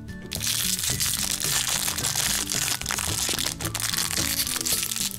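Plastic wrapping crinkling and crackling as a small toy accessory packet is unwrapped, over background music with a steady run of notes.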